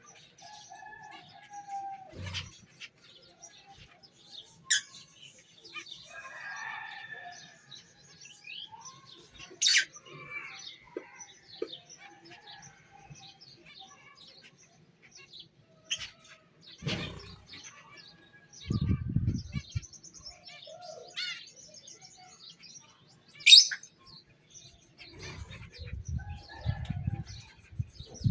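Small caged pet birds chirping, with scattered short calls and a few sharp, loud ones, the loudest a little before the end. Bursts of wing-flapping come near the middle and again near the end.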